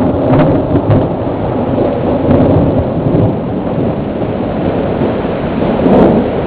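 Thunder rumbling over steady rain in a thunderstorm, with a louder swell about six seconds in.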